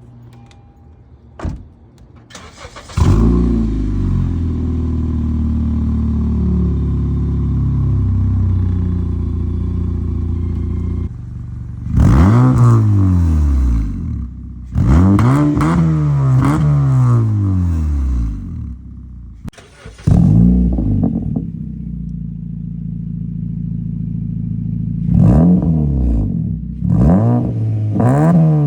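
The 1.8 L four-cylinder engine of a 2012 Honda Civic, breathing through an aftermarket eBay muffler exhaust, catches about three seconds in, flares and settles to a steady idle. It is then blipped several times, each rev rising and falling back to idle, and the longest rev comes around the middle.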